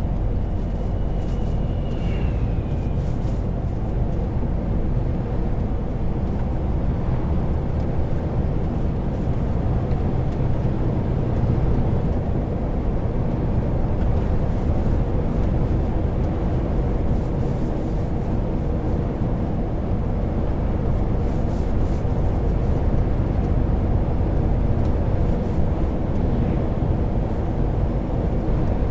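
Heavy truck's diesel engine and tyres running steadily on the road, a continuous low rumble. A brief high tone sounds about a second in.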